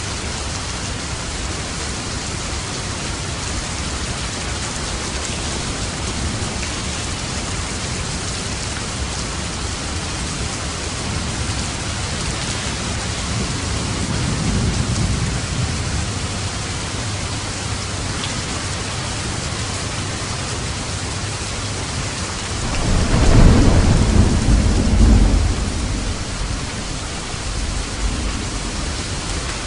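Steady heavy rain with rolling thunder: a soft low rumble about halfway through and a louder, longer rumble some three-quarters of the way in.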